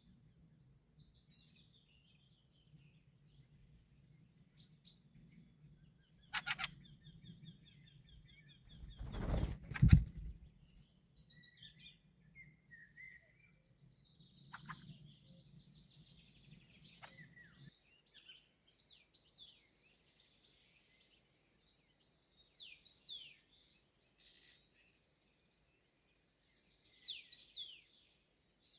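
Wild songbirds calling and singing with short chirps, whistles and a rapid trill, and a loud brief rustle about ten seconds in.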